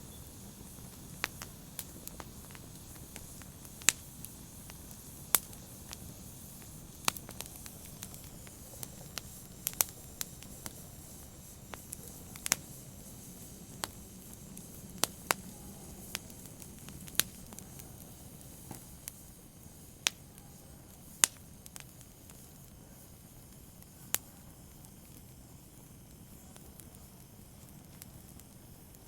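Wood fire burning with sharp, irregular crackles and pops over a low steady hiss, the pops growing sparse in the last few seconds.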